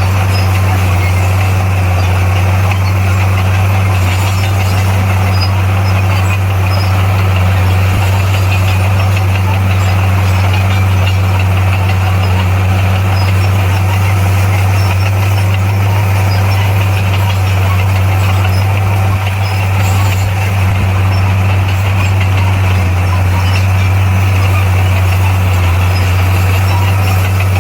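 Bulldozer's diesel engine running at a steady speed, a loud, even low drone that does not rise or fall.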